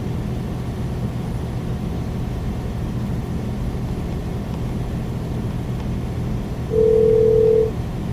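Steady low drone of a semi truck's engine and tyres at highway speed, heard inside the cab. Near the end, a loud steady electronic beep sounds once for about a second.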